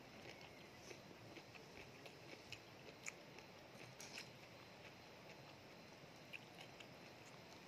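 Faint close-up chewing of sea grape seaweed salad with grated coconut, mouth closed, with small soft clicks scattered through it about once or twice a second.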